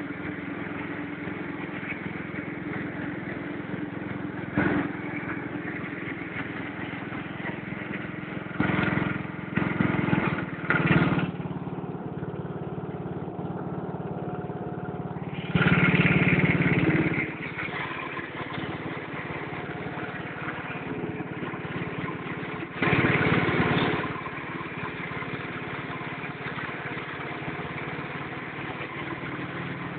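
ATCO garden tractor's Briggs & Stratton 8 horsepower engine running steadily, with several brief louder surges, the longest about halfway through.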